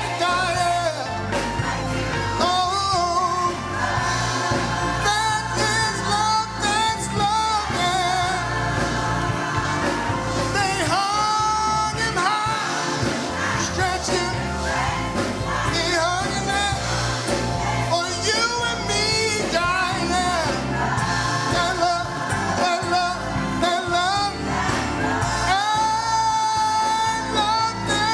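Gospel singing with a band: sung melody over steady keyboard and bass accompaniment.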